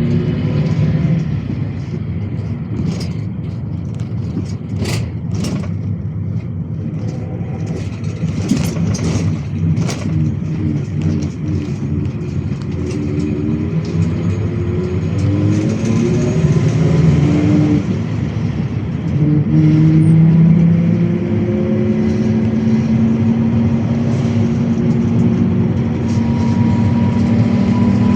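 GAZ-A68R52 City minibus engine running under way, its pitch climbing several times as the bus speeds up and shifts through the gears, then holding steadier and higher near the end. A few sharp rattles or knocks come in the first ten seconds.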